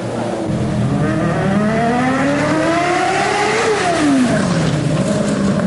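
Motorcycle engine revving up smoothly for about three seconds, then quickly dropping back and holding a steady lower speed.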